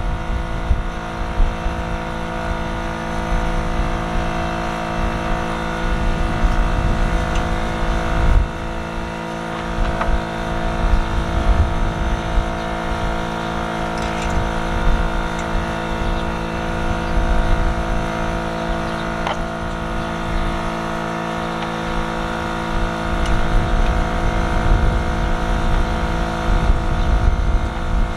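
An engine running steadily at a constant speed, with wind rumbling on the microphone.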